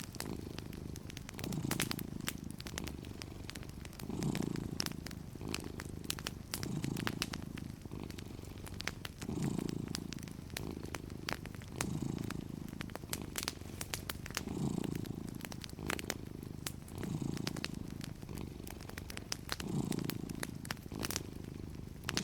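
A cat purring steadily, swelling and easing with each breath about every two and a half seconds, with the sharp pops and crackles of a wood fire scattered over it.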